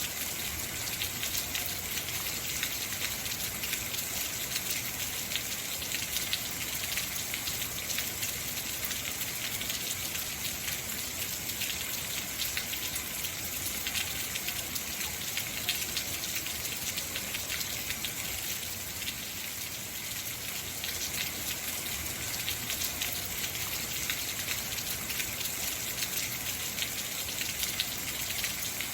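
Heavy rain falling steadily, a dense hiss with many fine drop patters.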